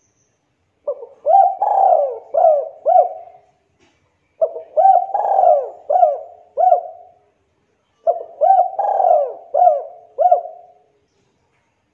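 Spotted dove (tekukur) cooing: three phrases a little over a second apart, each a run of about five arching coos.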